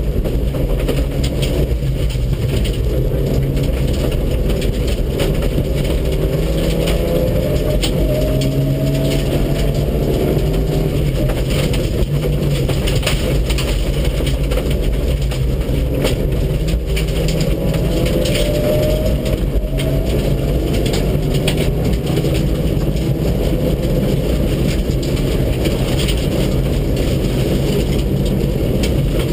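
Mitsubishi Lancer Evolution VII's turbocharged four-cylinder rally engine driven hard on a special stage, its pitch climbing as it revs up through the gears twice, over constant road noise with many small clicks and knocks.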